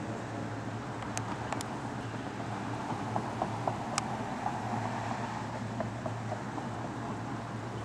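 Lifted 2001 Chevy Silverado 2500 pickup with custom headers and exhaust driving at a steady pace: a steady low engine drone under road noise, with a few faint clicks.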